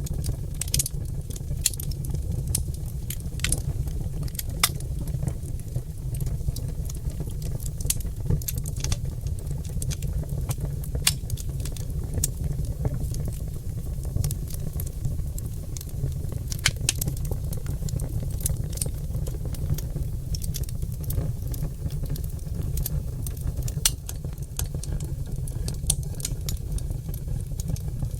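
Wood fire of oak logs crackling, with sharp pops at irregular intervals over a steady low rumble.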